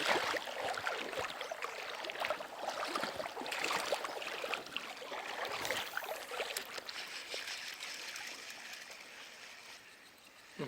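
Running stream water with small splashes and clicks, fading gradually toward the end.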